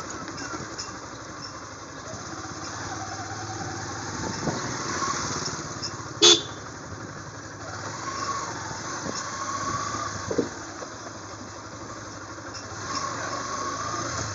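Motorcycle and road traffic noise while riding, steady throughout. About six seconds in comes one short, loud, sharp sound.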